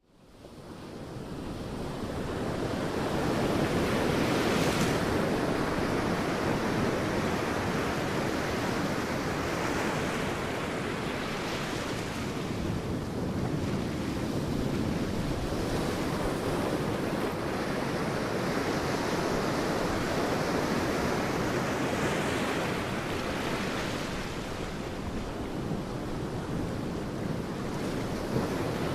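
Sea waves breaking and washing on a beach, a continuous surf with swells of hissing spray every few seconds. It fades in over the first few seconds.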